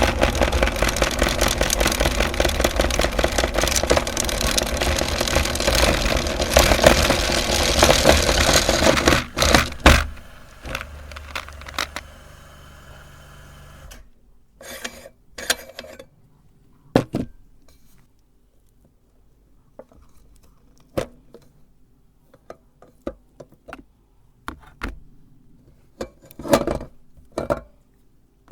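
Electric meat grinder running and grinding, a steady motor hum under dense crackling, cutting off about ten seconds in. After that, scattered sharp clicks and knocks.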